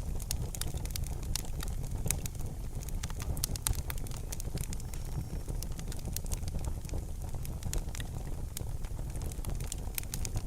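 Wood fire crackling in a fireplace: frequent sharp pops and snaps, irregular, over a steady low rumble.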